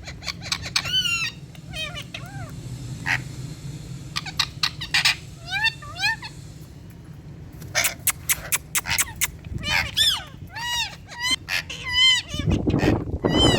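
Indian ringneck parakeet calling: repeated short, shrill calls that rise and fall in pitch, coming in quick clusters with a lull about halfway through. A low noise rises under the calls near the end.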